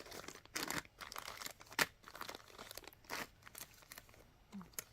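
Small plastic bead packets crinkling and rustling as they are handled, with scattered light clicks and one sharper click a little under two seconds in.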